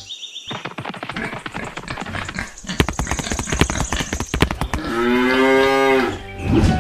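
Rapid clicking and tapping for several seconds, then a cow moos once, a long call of over a second about five seconds in.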